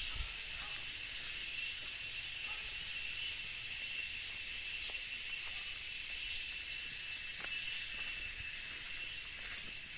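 Steady, high-pitched insect chorus, a continuous shrill hiss with faint scattered ticks.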